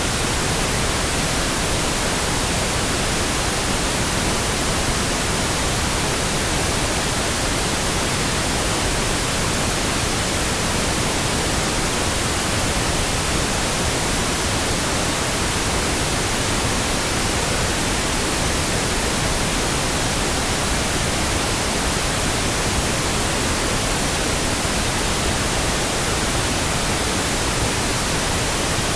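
Steady, unbroken pink noise, an even hiss across the whole range, used as a sleep aid for babies.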